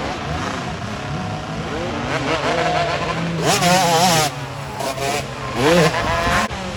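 Several motocross motorcycles' engines revving and changing pitch as the bikes race around the track, with one bike passing louder about halfway through and another shortly before the end.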